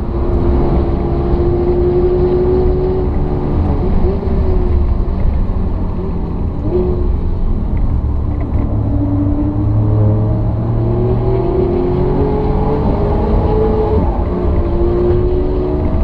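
Alfa Romeo Giulia Quadrifoglio's twin-turbo V6 heard inside the cabin, its pitch rising and falling again and again as the car accelerates and lifts off through a series of corners, over a steady low road rumble.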